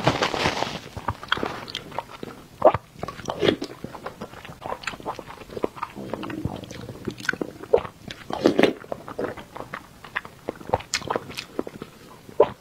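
Close-miked eating sounds of a person eating whole eggs: wet chewing and lip smacking with many short sharp mouth clicks.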